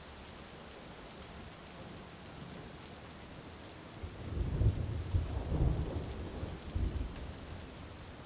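Steady heavy rain, with a rolling rumble of thunder that starts about halfway through, swells in several surges and dies away near the end.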